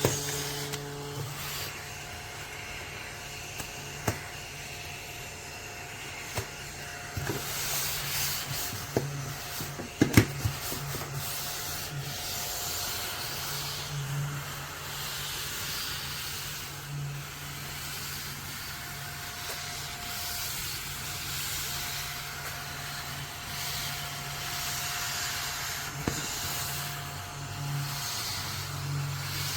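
Rubbing and handling noises from a small plastic mini desktop vacuum being cleaned out, with a few sharp knocks and a steady low hum underneath.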